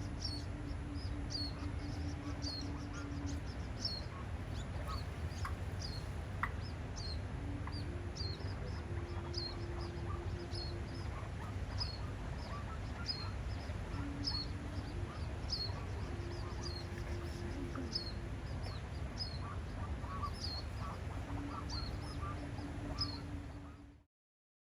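Birds calling outdoors: short high chirps repeated about twice a second, over a low rumble, with a steady low hum that comes and goes in stretches.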